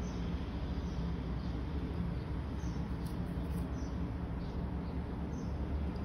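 Small birds chirping faintly, with short, high, falling chirps about once a second, over a steady low background rumble.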